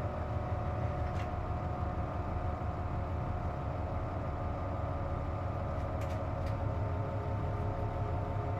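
Cabin sound of a KC-JP250NTN city bus running: a steady low engine drone with a steady whine of several high tones over it. This is the unusual noise the bus makes with its air conditioning switched on. A few faint clicks come near the start and about six seconds in.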